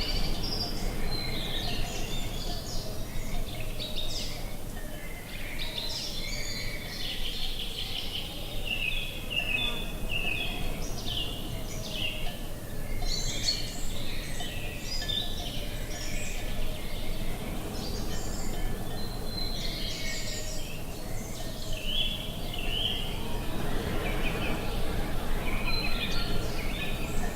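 Several songbirds chirping and trilling continuously over a steady low outdoor rumble of wind.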